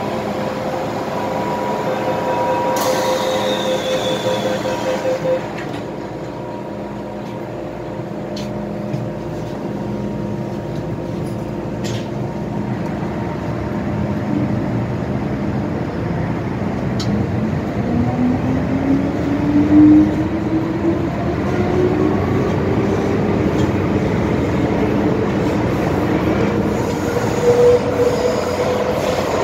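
MTR M-Train electric multiple unit running, with a steady motor hum that stops about five seconds in. From about seventeen seconds a rising whine of the traction motors sets in as the train picks up speed.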